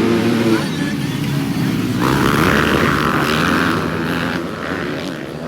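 Motocross bike engines revving, their pitch rising and falling, with a louder stretch in the middle.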